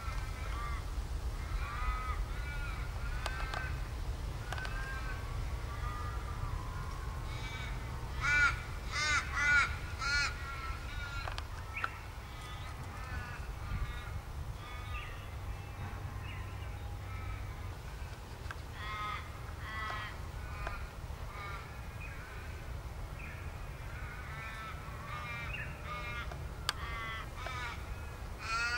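Birds calling in series of short repeated notes, loudest about eight to ten seconds in and again around twenty seconds in, over a steady low rumble.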